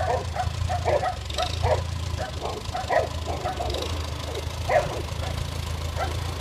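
A dog barking and yipping repeatedly in quick, irregular bursts, over a steady low hum.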